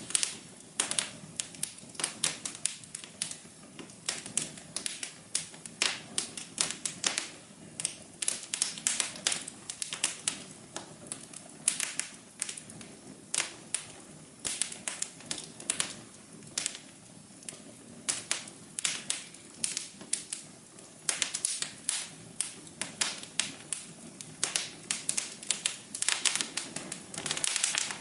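Wood fire crackling and popping in a fireplace, with irregular sharp snaps over a soft steady rush of the flames.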